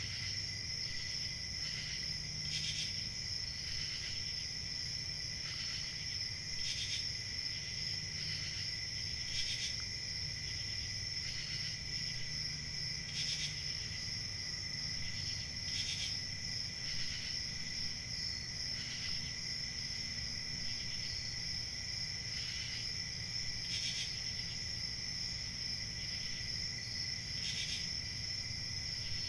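Crickets chirping in a steady, continuous chorus, with individual louder chirps standing out every second or so.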